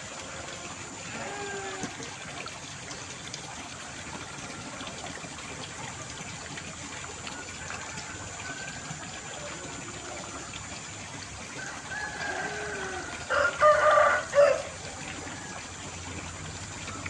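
A rooster crows once, loudly, about thirteen seconds in, over a steady rush of water; fainter calls come and go in the background.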